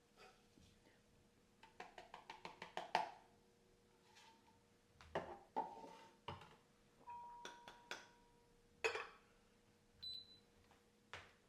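Light taps and clinks of household objects being handled: a quick run of about eight taps, then scattered single knocks, a few leaving a short ringing tone.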